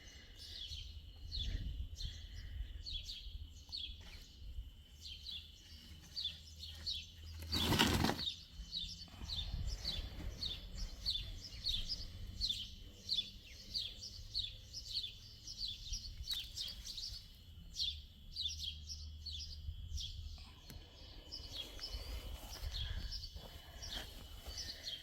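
Birds chirping, a run of short, high, falling chirps repeated a couple of times a second, with one sharp knock about eight seconds in.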